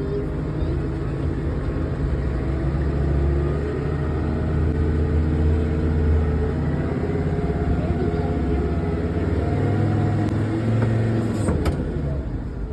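A vehicle engine running steadily, its pitch and load swelling and easing as it works; near the end it drops off, with a sharp click.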